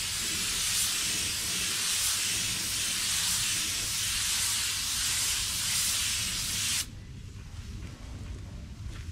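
Compressed-air paint spray gun hissing steadily during a spray pass, then cutting off sharply about seven seconds in, leaving a quieter low hum.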